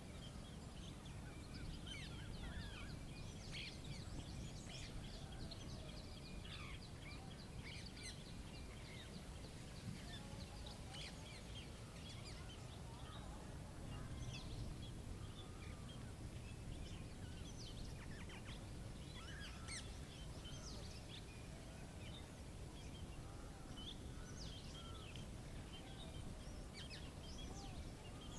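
Birds chirping and calling in short, scattered notes throughout, over a steady low ambient rumble.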